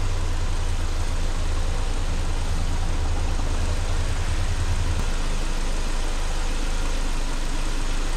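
A 2001 Ford Escort's 2.0-litre four-cylinder engine idling steadily at running temperature, with a low drone that drops away about five seconds in.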